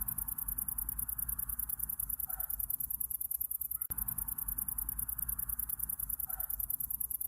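Summer-night ambience loop: crickets chirping in a fast, even pulse high in pitch, over a low rumble. A short call sounds twice, and the bed repeats about every four seconds.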